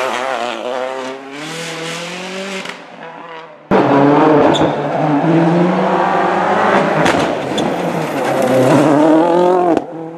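Rally car engines revving hard as cars pass, the pitch climbing and dropping repeatedly through gear changes. About a third of the way in it cuts abruptly to a louder, closer car at full throttle, which cuts off again just before the end.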